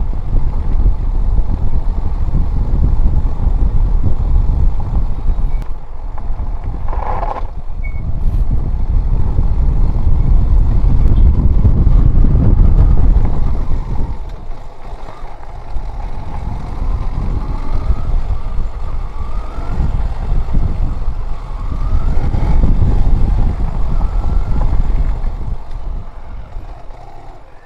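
Motorcycle being ridden, its engine running under a heavy low rumble, with a brief higher-pitched sound about seven seconds in. The level falls off near the end.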